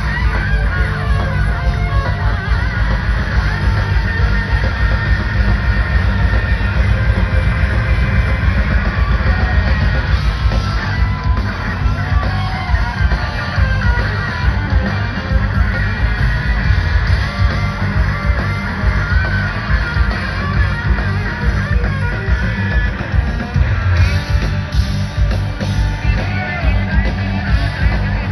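Live rock band playing an instrumental jam: electric guitar leads over bass and drums, heard loud and dense as a concert recording.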